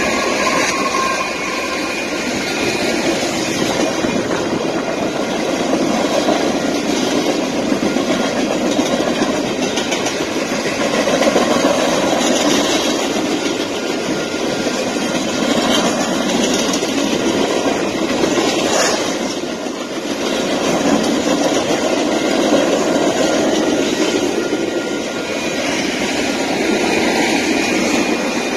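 Diesel freight train passing close by: first its locomotives, then a long line of boxcars and hoppers, making a steady, loud noise of wheels rolling and clacking over the rails.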